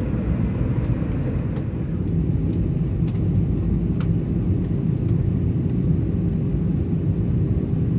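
Steady low rumble of an Airbus A320 cabin, with a faint steady hum and a few light clicks.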